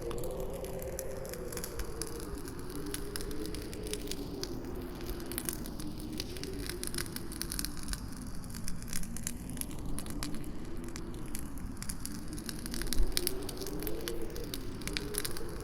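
Campfire crackling with many quick pops, over a howling wind whose pitch slowly rises and falls. The crackling gets louder for a moment about two-thirds of the way through.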